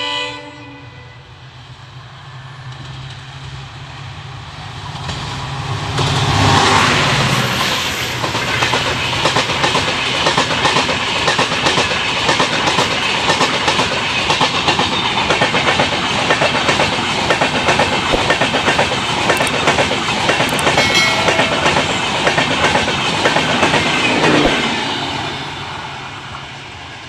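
Rajdhani Express passenger train passing at high speed. It grows louder over the first six seconds as it approaches, then the coaches' wheels clatter over the rail joints at a rapid, steady rate for about eighteen seconds, and the sound dies away near the end as the last coach goes by.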